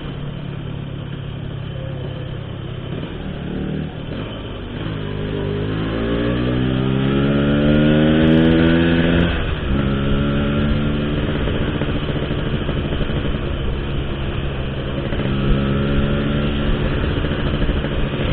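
Motorcycle engine on the move through an Altech C17 aftermarket exhaust, the engine itself still stock. The engine note climbs steadily from about four seconds in to about nine and a half, drops suddenly, then runs steadily, rising a little again near the end.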